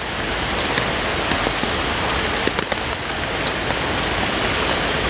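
Steady rain falling, an even dense hiss mixed with the rush of a mountain stream, with a thin high steady hiss on top.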